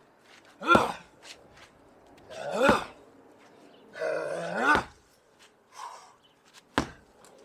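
A 16 lb sledgehammer slammed down onto a rubber mat on the ground four times, about every two seconds. Most blows come with a loud grunt from the man swinging it, falling in pitch.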